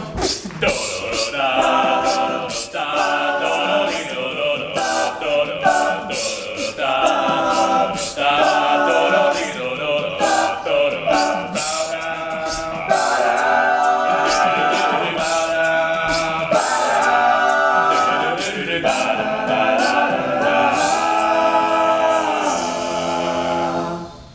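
A cappella vocal group singing the song's wordless instrumental riff in close harmony over a steady vocal-percussion beat. The sound drops away suddenly just before the end.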